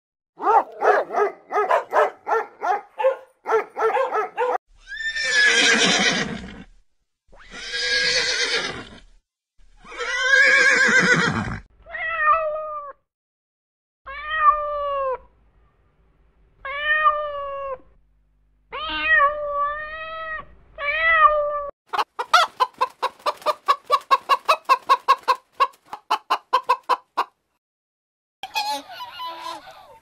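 A string of animal calls: a run of quick short yaps, three long harsh calls, then a cat meowing about five times, then a fast series of short calls, with honking starting near the end.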